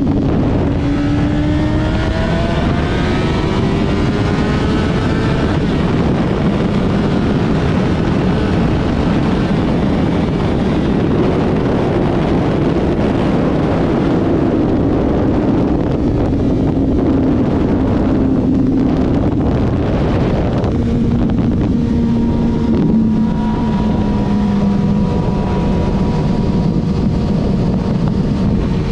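Honda CBR600 inline-four motorcycle engine under way, its pitch rising as it accelerates over the first few seconds, then holding and easing down later on. Heavy wind rush on the microphone runs under the engine.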